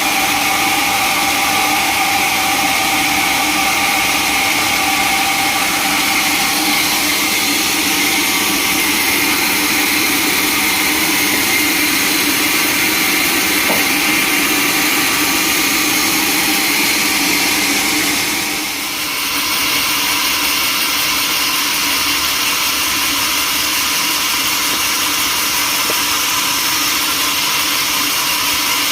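Sawmill machinery running steadily, a loud mechanical hum and hiss with several held tones. It dips briefly about two-thirds of the way through, then runs on with a changed tone.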